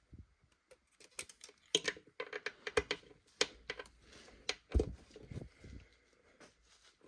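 Irregular clicks, light knocks and rattles as the oil dipstick of a four-stroke outboard is pulled out, wiped and pushed back in to check the oil level, with a duller thud about five seconds in.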